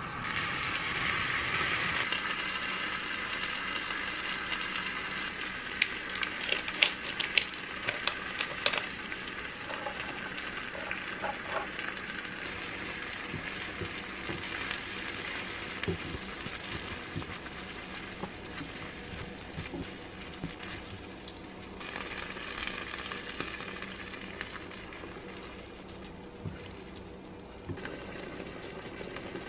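Curry sauce and tofu noodles sizzling in a frying pan on a gas stove, with a steady hiss. Chopsticks and a spoon click against the pan while the noodles are stirred in, most often a few seconds in.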